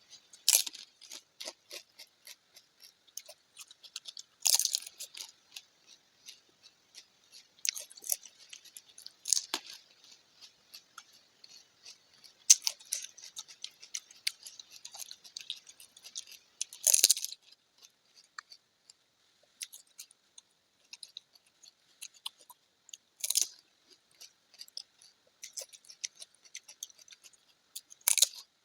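Panipuri being eaten fast: crisp hollow puri shells crunching loudly as each one is bitten, every few seconds, with lighter crackling chewing between bites.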